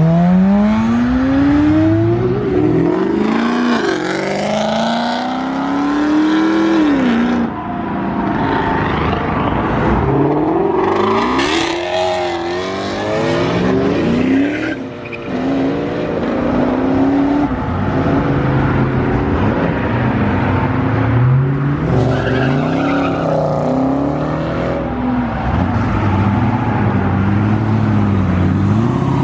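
Performance cars accelerating hard one after another, their engines revving up in repeated rising sweeps as they shift through the gears.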